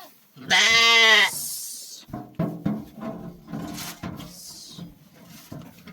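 A goat or sheep bleats once, loudly, a call just under a second long that rises and falls in pitch. Scattered knocks and light clatter follow.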